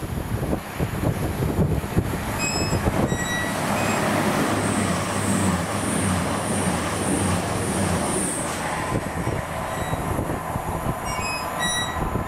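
Diesel train running through the station: a steady rush of wheels on rail over a low engine hum, with a high hiss that pulses about twice a second through the middle.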